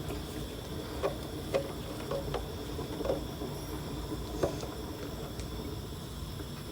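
Scattered light metallic clicks and knocks of an oil filter wrench being fitted and worked on a spin-on oil filter that was put on too tight, over a low steady background.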